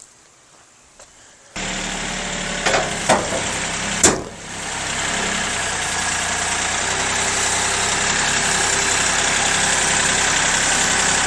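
Kioti CK3510 compact tractor's three-cylinder diesel engine running steadily, cutting in abruptly about one and a half seconds in. A few sharp knocks come over it a couple of seconds later, and the engine grows slightly louder toward the end.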